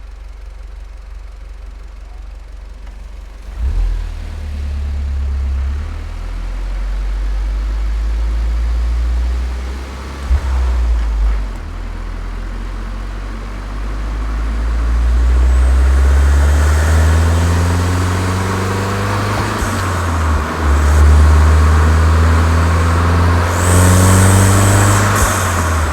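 Volkswagen Golf 7 GTI's turbocharged four-cylinder, fitted with an aftermarket Cox muffler, idling quietly, then coming under load a few seconds in. Later it accelerates hard: the engine note climbs twice and breaks off briefly at each gear change.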